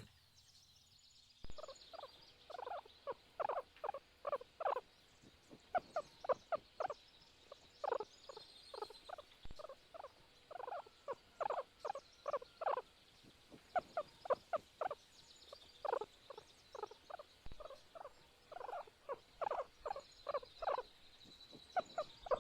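Guinea pig squeaking: a long series of short squeaks in quick clusters of several a second, with brief pauses between the runs.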